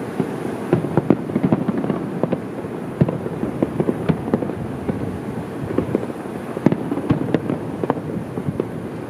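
Aerial fireworks shells bursting in quick, irregular succession: a dense run of bangs and crackles over a steady low rumble.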